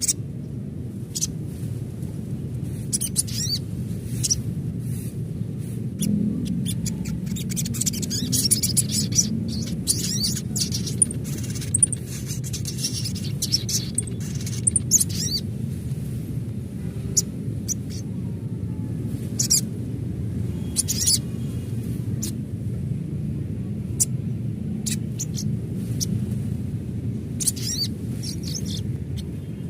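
Sunbird (sogon) calling: rapid, very high, thin chirps and short trills in clustered bursts, densest in the first half, over a steady low rumble of outdoor ambience.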